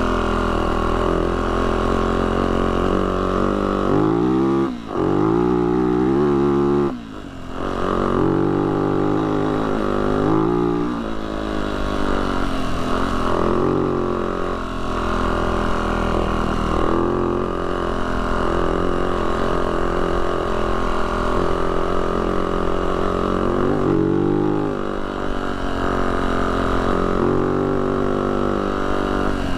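Yamaha YZ450F dirt bike's four-stroke single-cylinder engine running under load up a climb, its pitch rising and falling with the throttle. The throttle is briefly shut off twice, about five and seven seconds in.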